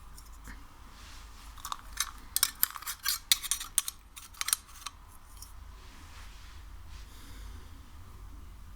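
Sticky ASMR material (slime or wax) being handled: a quick run of sharp, crackling clicks and pops starting about two seconds in and lasting about three seconds, then only a faint soft rustle.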